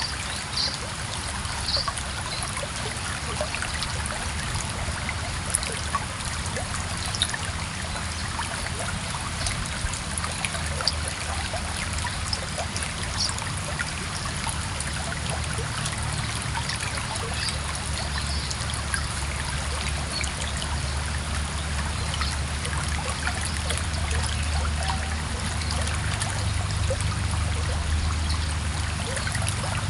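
Stream water running steadily over rocks, with a low rumble that swells toward the end and a few brief high peeps now and then.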